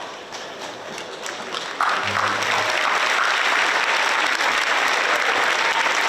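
A large audience applauding: a few scattered claps at first, then about two seconds in the whole crowd breaks into loud applause that holds steady.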